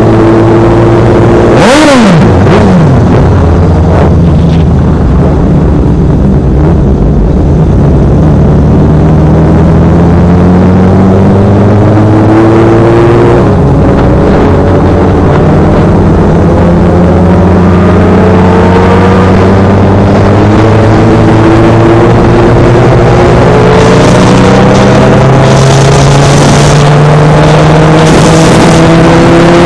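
Honda CBR600F's inline-four engine pulling steadily under acceleration, its pitch climbing slowly with a shift about 13 seconds in. About two seconds in, a passing vehicle's sound sweeps sharply down in pitch.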